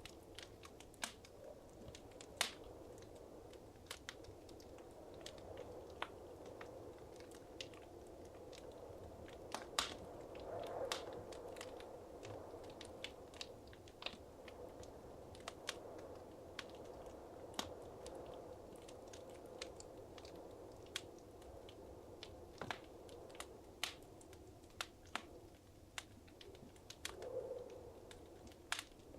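Wood fire crackling in a fireplace: irregular sharp pops and snaps, a few louder than the rest, over a soft steady hiss of burning.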